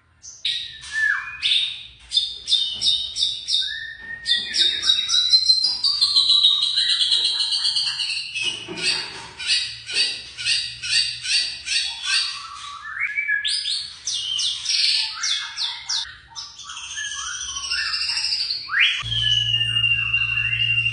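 White-rumped shama (murai batu) singing a varied song: runs of quick repeated notes, gliding whistles and trills. About two seconds before the end it switches to one long steady whistle, and a low hum comes in with it.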